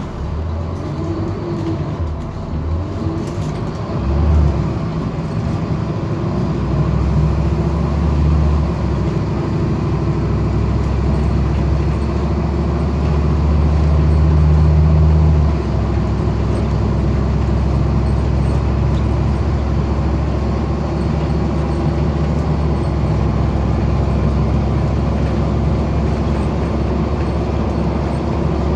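Scania N230UD double-decker bus engine running hard at high revs, its ZF automatic gearbox slipping so the engine keeps running up to the redline. The engine note builds and then shifts about halfway through.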